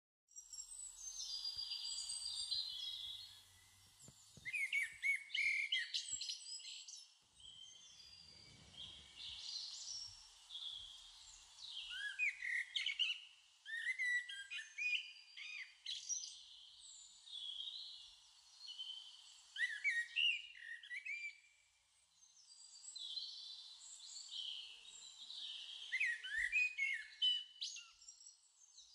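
Birdsong: small birds chirping and twittering in bursts of quick rising and falling calls and short trills.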